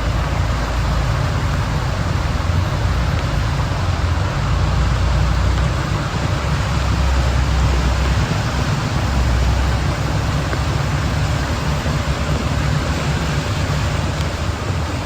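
Steady road noise of vehicle traffic, with a low rumble that swells and eases.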